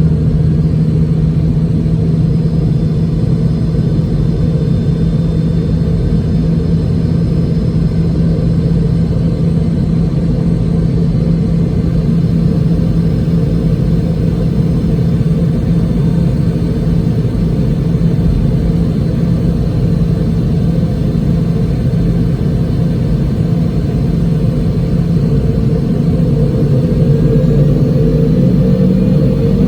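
Boeing 717's rear-mounted Rolls-Royce BR715 turbofan engines running, heard inside the cabin near the back as a steady, loud drone with a low hum. Its pitch rises slightly near the end.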